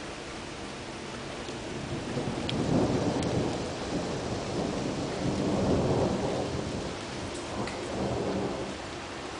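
Thunder rumbling in long rolling swells that peak about three seconds in and again around six seconds, with a smaller swell near eight seconds, over the steady hiss of rain.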